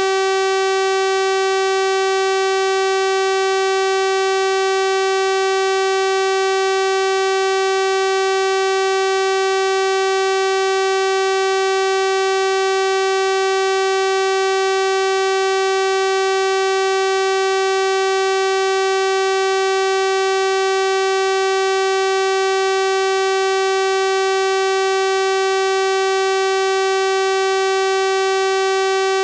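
Synthesized 384 Hz sawtooth-wave tone, held steady at one pitch and level, with a bright, buzzy stack of harmonics.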